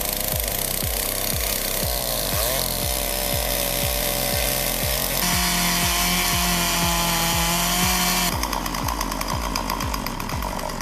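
Chainsaw running and cutting wood, its pitch holding steady for a few seconds in the middle. Background music with a steady thumping beat plays underneath.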